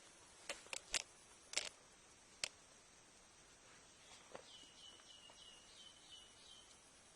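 Outdoor forest ambience: a few sharp clicks in the first couple of seconds, then a bird calling a run of about seven short, slightly falling notes over a steady faint hiss.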